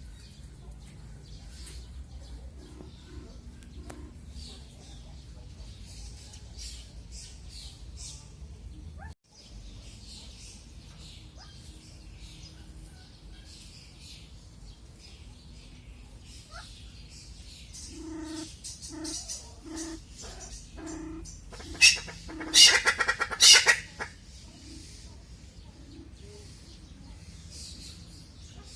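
Small birds chirping and twittering throughout, mixed with domestic chickens. A hen clucks in a short run of low calls from about two-thirds of the way in, then breaks into a loud, harsh squawking cackle for a couple of seconds.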